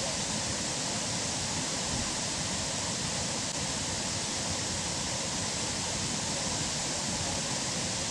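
Steady rush of falling water from a waterfall, a constant even hiss with no breaks.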